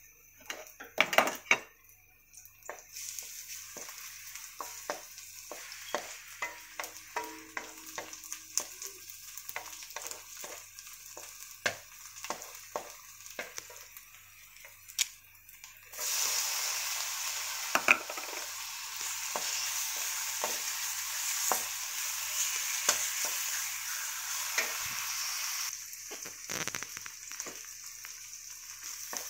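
Onions and garlic sizzling in hot oil in a metal wok, a wooden spoon scraping and knocking against the pan as they are stirred. About halfway through the sizzle turns suddenly louder for about ten seconds, then drops back.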